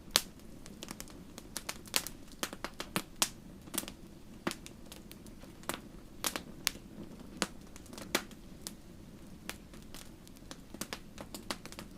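Fire crackling: irregular sharp pops and snaps, sometimes several close together, over a soft, steady, low background noise.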